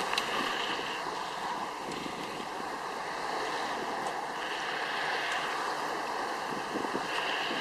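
Steady wash of wind and waves.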